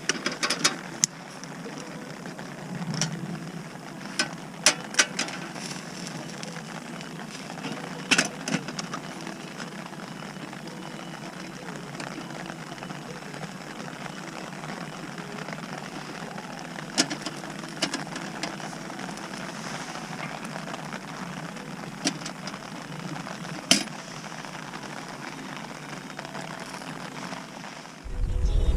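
Wood fire burning in a home-made fire pit, crackling with sharp pops every few seconds over a steady hiss.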